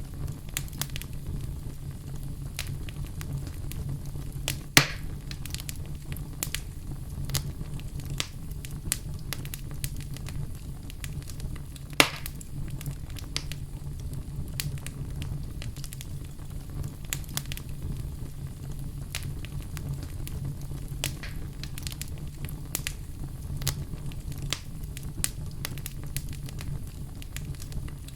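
Wood fire burning in a fireplace: a steady low rumble of flames with frequent small crackles and two louder pops, about five and twelve seconds in.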